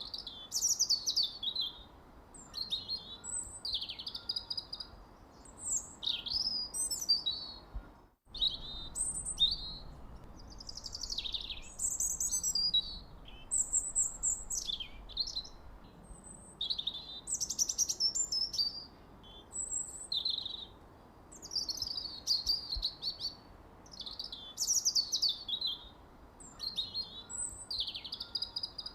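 Birds chirping continuously in quick, high, sweeping calls, with a momentary break about eight seconds in where the recording cuts.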